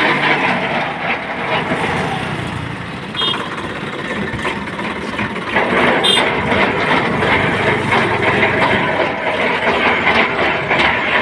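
A vehicle engine running steadily, with a dense mechanical rattle. Two short high chirps come about three and six seconds in.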